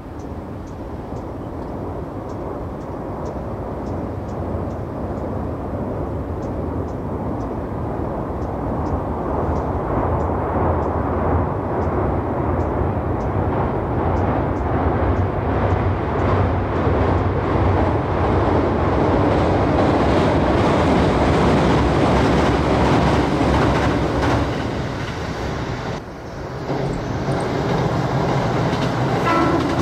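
A train running on rails, approaching and passing: its rumble grows steadily louder for about twenty seconds, dips briefly near the end, then comes back up.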